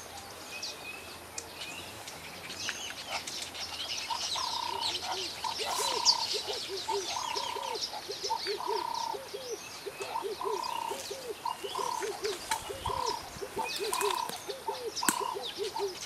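Birds chirping and calling: many short high chirps, joined from about four seconds in by a lower call that repeats about twice a second.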